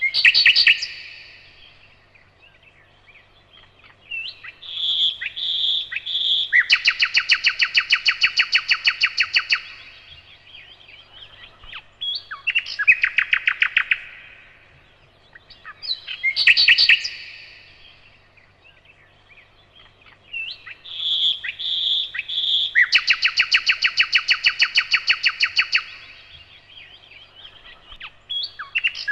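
Nightingale singing in loud separate phrases. Each sequence runs from a sharp burst of notes to three clear, evenly spaced whistles and then a long, rapid trill of about eight notes a second. The same sequence comes again about halfway through, over a faint steady low hum.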